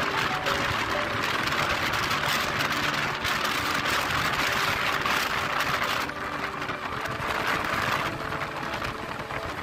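Moving passenger train: a steady rushing noise of the running train that eases somewhat about six seconds in.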